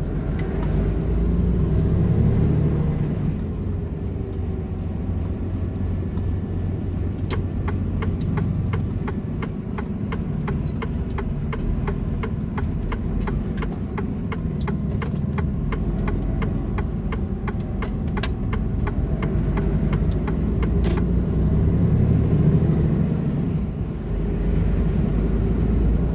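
Mercedes Actros truck driving on a motorway, heard inside the cab: a steady low rumble of engine and road noise. Through the middle a regular ticking runs at about two ticks a second for roughly a quarter of a minute.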